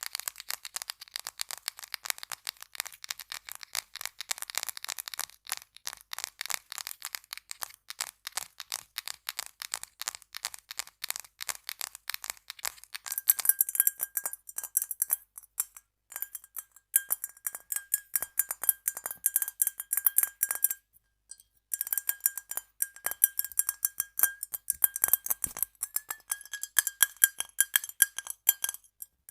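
Rapid tapping, many light taps a second, on a series of objects. For the first half the taps are dry clicks. About halfway in they switch to a glass item that rings with a clear, steady tone under each tap, with a short break about three-quarters of the way through.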